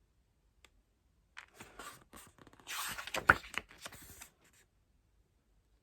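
Photo cards and their paper and plastic packaging being handled: about three seconds of rustling and small clicks, loudest with one sharp tap near the middle.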